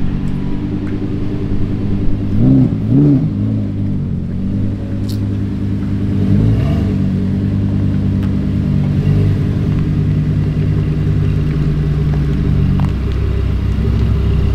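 Lamborghini engine running at idle, with two quick revs a couple of seconds in and another short rev about six seconds in.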